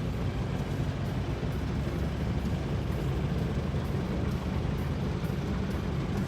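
Motorboat engine running steadily under way, heard from on board as an even low drone with water and air noise over it.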